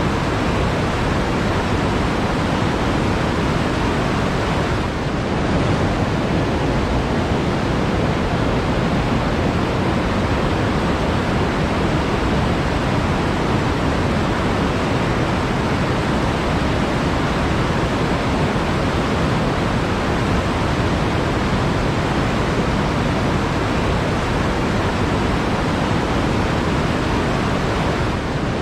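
Flowing water, a steady, unbroken wash of noise.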